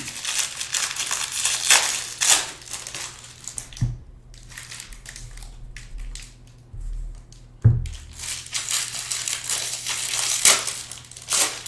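Crinkling and rustling of packaging being handled on a table, with two dull thumps, about four and eight seconds in.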